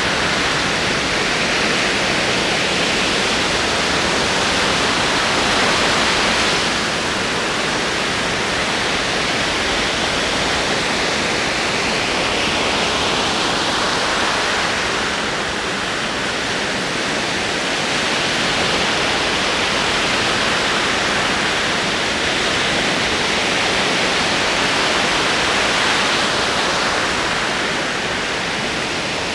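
Ocean waves rolling and washing ashore in a continuous rush of surf, swelling and easing every several seconds.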